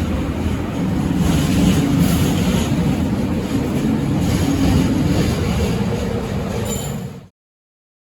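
Scania K270UB city bus's diesel engine running, a steady low rumble heard close up, which cuts off abruptly about seven seconds in.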